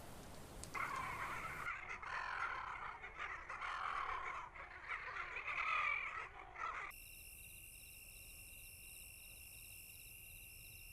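A flock of birds calling noisily with crow-like caws for about six seconds. About seven seconds in it cuts abruptly to a quieter steady high-pitched hum with a faint repeating flutter.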